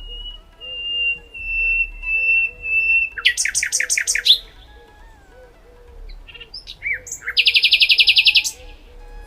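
Songbirds calling: a long, slightly falling whistle, then a quick trill about three seconds in and a longer, louder rapid trill near the end.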